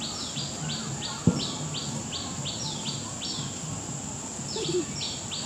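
Birds chirping rapidly, short calls repeating about three times a second, over a steady high insect hiss. A single sharp knock sounds about a second in.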